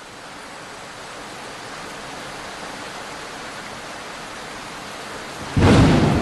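Steady rain that slowly grows louder, then a sudden loud clap of thunder near the end.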